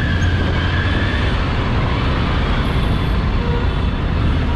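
Triumph Tiger 900's three-cylinder engine running with a steady low hum as the bike rolls slowly, mixed with the noise of surrounding road traffic.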